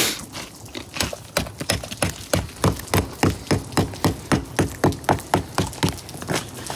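Ice crusted on a car being chipped with a metal spike: a quick, regular run of sharp cracking strikes, about three a second.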